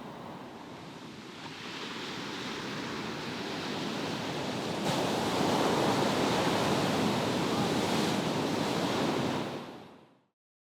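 Sea waves washing onto the shore, with wind on the microphone. The surf grows louder about five seconds in, then fades out near the end.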